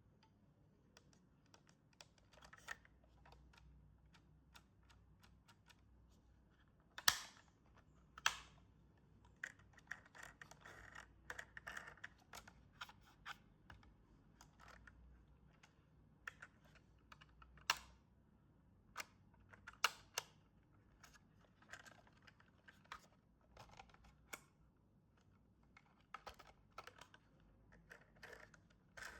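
Irregular light clicks, taps and rustling of hands handling toy packaging and plastic toy parts, with a few louder knocks spread through.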